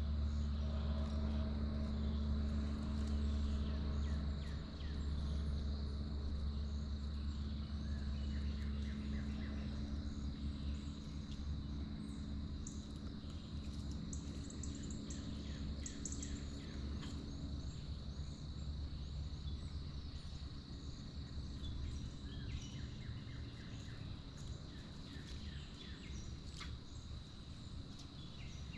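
Birds chirping in short, scattered calls over a steady high-pitched hum and a low rumble that slowly fades.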